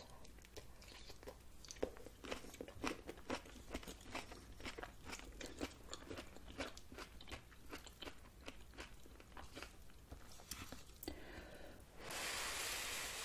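Close-miked chewing of crunchy bok choy: moist crunches and clicks a few times a second. Near the end a loud breathy rush lasts about a second.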